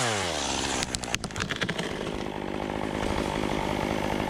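Chainsaw easing off to idle, with a quick run of sharp cracks about a second in as the notched and back-cut limb snaps free; the saw then idles steadily.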